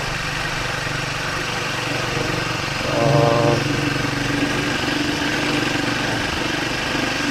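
Triumph Speed 400's single-cylinder engine running steadily, with a brief higher tone about three seconds in.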